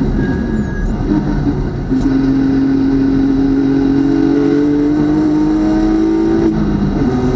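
BMW club race car's engine pulling hard through a gear, its pitch climbing steadily. About six and a half seconds in, a quick upshift drops the pitch, and the engine climbs again.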